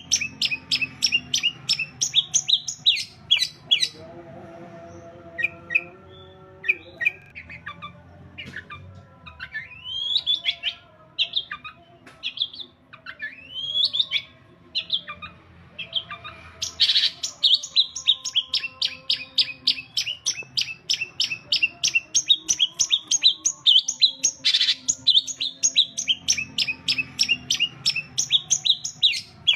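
Long-tailed shrike (cendet) singing: fast runs of sharp, evenly repeated chirps, broken in the middle by a stretch of separate notes that rise and fall. The fast chirping starts up again about two thirds of the way through.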